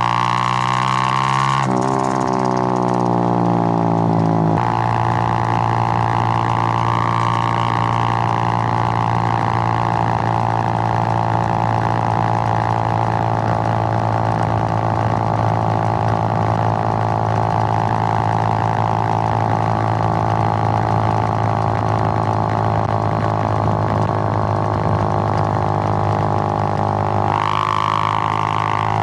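Suzuki GN125's single-cylinder four-stroke engine under way: it revs up through two gears in the first few seconds, then holds a steady cruising drone, and revs up again near the end.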